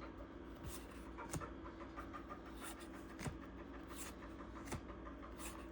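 Baseball cards being handled and set down one after another, making faint soft ticks about once a second over a steady low hum.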